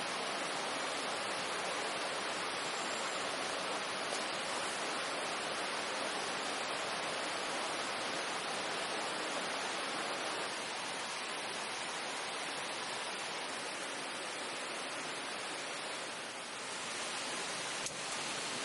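Steady, even rushing of running water, with a single faint click near the end.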